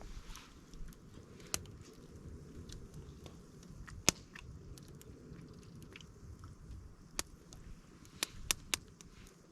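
A person biting and chewing food, with about six sharp clicks scattered through, the loudest about four seconds in and three close together near the end.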